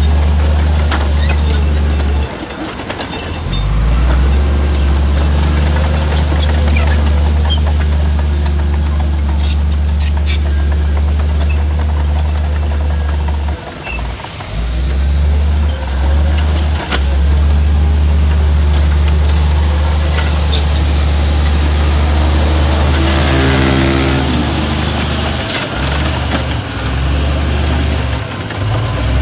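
Heavy diesel engine of earthmoving machinery running, a loud deep steady drone that dips briefly a few times. The engine note shifts about three quarters of the way through.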